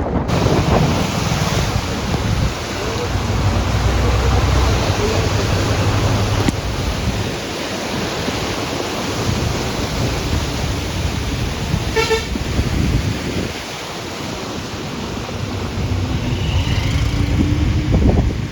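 Wind buffeting the microphone over a steady rushing noise, with one short vehicle horn toot about two-thirds of the way through.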